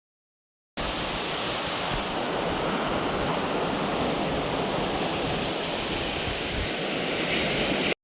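Steady rushing of a large waterfall's falling water. It cuts in abruptly about a second in and cuts off abruptly just before the end.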